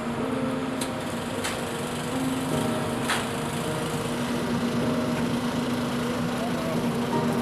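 A small engine running steadily, with a few sharp clicks about a second, a second and a half and three seconds in.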